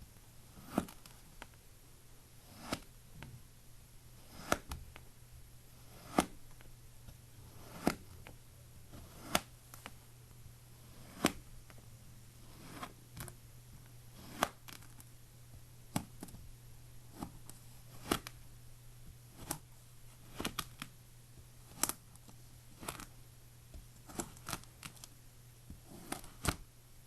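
Kinetic sand being cut and pressed, giving a short, crisp crunch every second or two, over a faint steady low hum.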